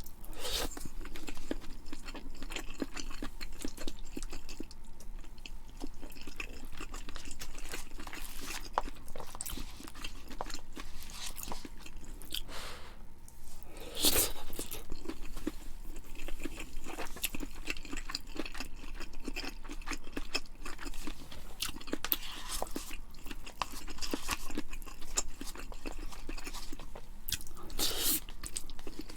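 A person chewing food with the mouth close to the microphone: a continuous run of wet chewing, biting and crunching noises, with one sharper crunch about halfway through.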